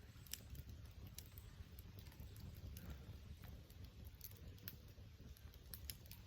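Wood fire burning faintly, with scattered sharp crackles and pops at irregular intervals over a low, steady rumble.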